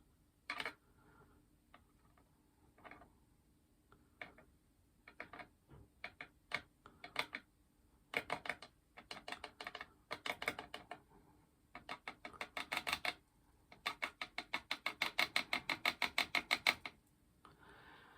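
Rapid short scratchy strokes of makeup being worked on: a brush or applicator rubbing against a powder pan or skin close to the microphone. The strokes are scattered at first, then come in fast runs of about six a second.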